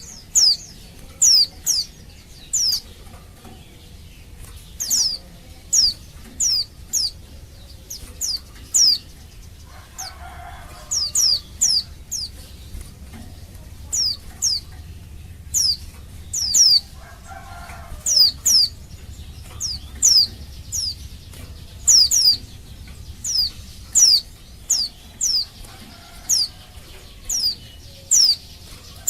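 Female white-eye (pleci) calling: short, high notes that sweep downward, given singly or in quick runs of two or three, repeated about every second, the call of a female in breeding condition calling to males.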